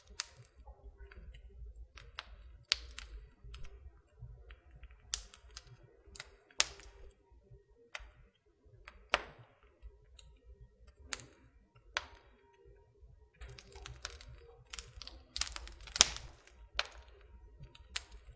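Wood fire in a fireplace crackling, with irregular sharp pops and snaps over a low steady rumble; one loud snap near the end.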